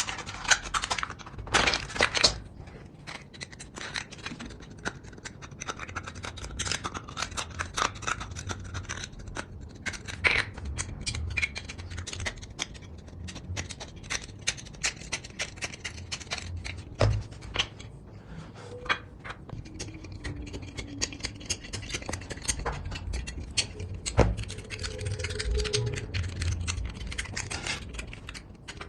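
Hands working small craft pieces of aluminium can: irregular scraping and clicking with a few sharper knocks.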